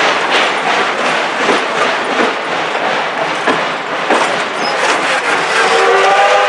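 A train rolling past, its wheels clicking over the rail joints in an irregular clickety-clack. Near the end the train starts sounding its warning signal, a chord of several steady tones.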